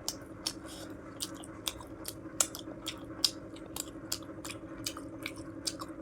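Close-miked chewing of food with a mouthful, wet mouth clicks and smacks about three to four times a second, over a steady low hum.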